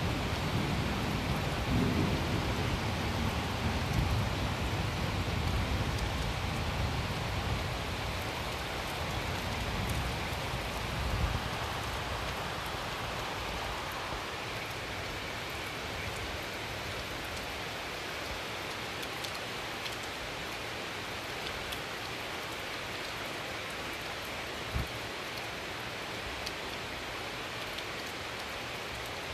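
Steady rain falling, with a long low rumble of thunder through the first ten seconds or so that fades away, leaving the rain alone.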